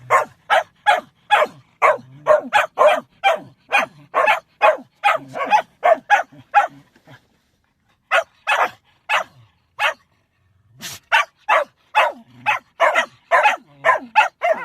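Shetland sheepdog barking rapidly and repeatedly, about three barks a second, stopping twice briefly before starting again.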